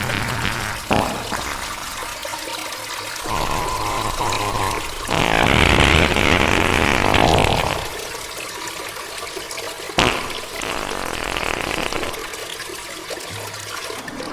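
Slowed-down, reverberant toilet sounds: a flush of rushing water, loudest from about five to eight seconds in, with sharp clicks about a second in and again about ten seconds in.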